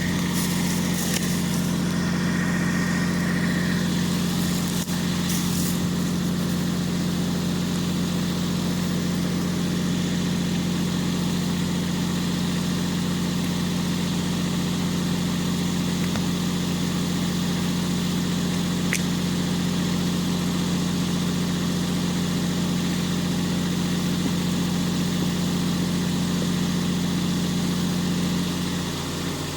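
Steady, even motor hum of a 12-volt electric chainsaw sharpener running. A few brief hissing sounds come in the first few seconds, and the hum eases off near the end.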